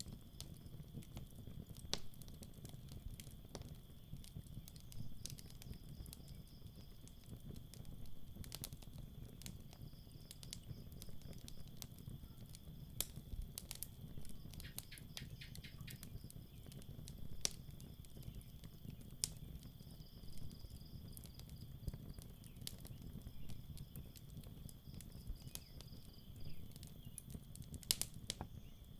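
Campfire crackling, with sharp pops scattered irregularly over a low steady rumble of the burning fire. Night insects keep up a steady high trill, and a second, higher trill comes and goes every few seconds.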